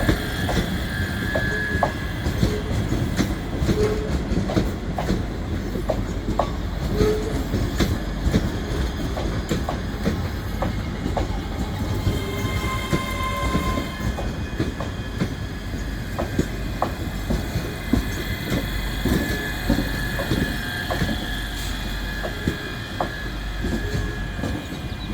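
A passenger train running slowly into a station platform. Its wheels click over the rail joints and points with a low rumble, and there are brief high squeals from the wheels.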